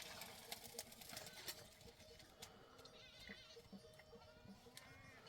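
Faint bleating of livestock, with a couple of high, wavering calls, one about three seconds in and another near the end, over scattered light clicks.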